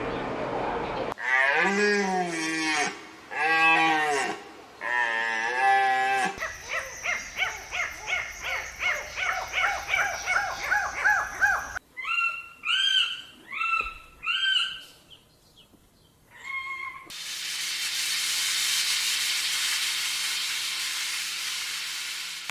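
A run of different animal calls, one clip after another. First come three drawn-out calls that rise and fall in pitch, then a fast string of short repeated calls, then high chirping calls. The last few seconds are a steady hiss-like noise.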